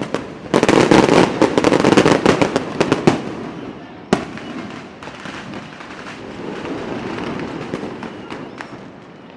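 A sound effect of rapid, loud crackling pops in a dense string for about two and a half seconds, then a single sharp crack and a softer run of crackles that fades out.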